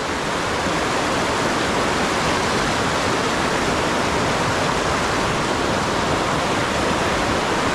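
Fast river water rushing steadily over rapids, an even full hiss with no breaks.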